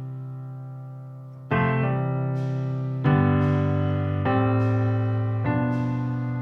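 Background music: slow piano chords, each struck and left to ring and fade, with a new chord every one to one and a half seconds.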